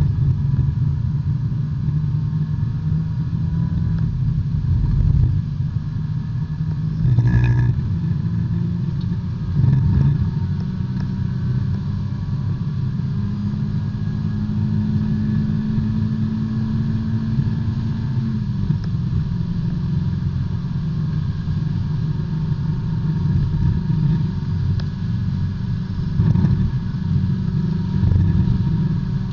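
Onboard sound of a B-Spec race car's small four-cylinder engine running hard, heard from inside the cockpit. Its pitch climbs for several seconds and drops suddenly at a gear change about 18 seconds in, with a few short knocks from the car about 7 and 10 seconds in and again near the end.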